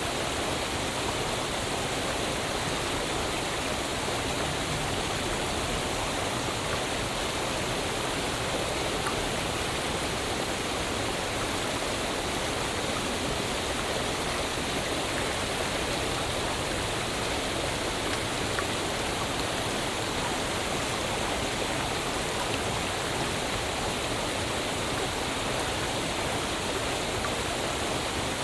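Waterfall: water falling and rushing in a steady, even roar of noise with no breaks or changes.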